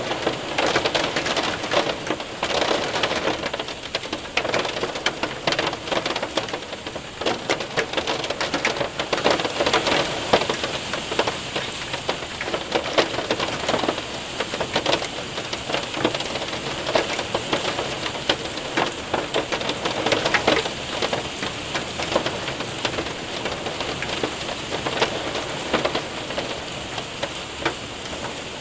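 Hail and rain hitting a window and roof: a dense steady patter with many sharp individual ticks and knocks of hailstones.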